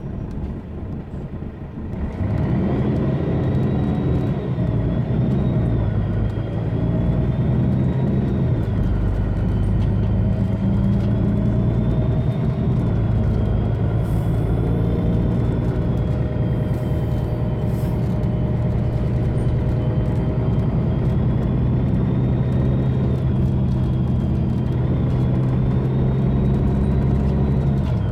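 Mercedes-Benz Citaro bus's OM457hLA diesel engine pulling away under load through its ZF Ecolife automatic gearbox, with a loud turbo whistle over it. The engine note rises and drops a couple of times in the first several seconds, then holds steady while the high whistle wavers slightly.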